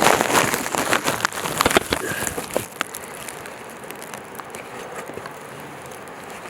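Footsteps scuffing and clicking on a rocky mountain trail with clothing rustle, a dense run of short knocks for the first couple of seconds, then dropping to a steady faint hiss.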